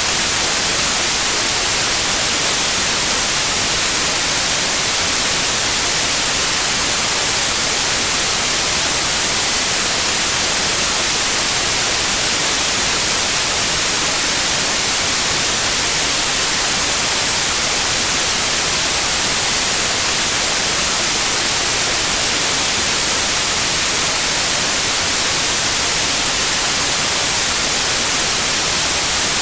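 Synthetic white noise, a steady hiss, with a continuous high-pitched pure tone at 9645 Hz over it, made for tinnitus sound therapy. The tone drops out for a moment about a second in.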